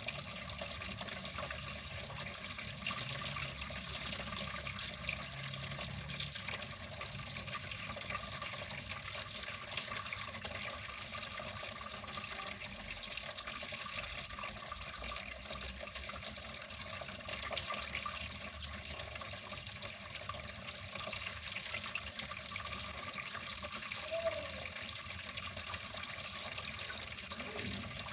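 Water running in a steady, unbroken flow.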